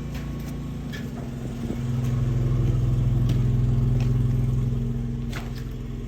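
Sewer water jetter's engine running steadily with a low hum; it grows louder about two seconds in and eases back a little after four seconds.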